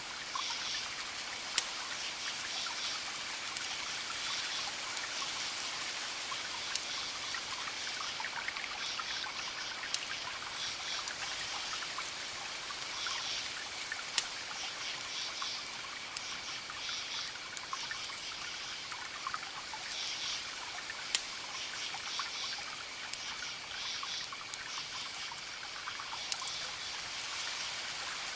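Campfire crackling with a few sharp pops, over the steady wash of distant ocean waves, while crickets chirp in repeated pulsing bursts every few seconds.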